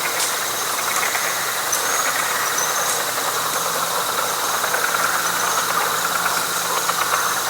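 Night chorus of frogs in a wet pine flatwoods: a dense, steady mass of calls with short high chirps repeating over it about once a second.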